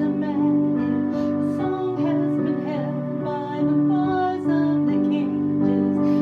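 Song with a female voice singing a wavering, vibrato melody over piano or keyboard accompaniment.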